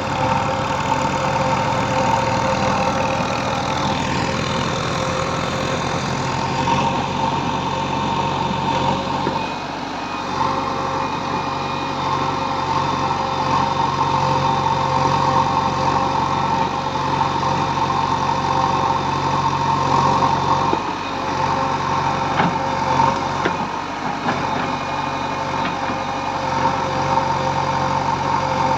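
Diesel engine of earthmoving machinery running steadily while working, with a constant whine over the engine note and brief drops in level about a third of the way in and twice more later on.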